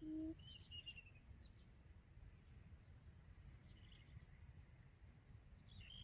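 A faint outdoor scene: a steady high-pitched insect trill runs throughout, and small birds chirp briefly a few times. Just after the start, the last low hoot of a series of quail lure calls ends.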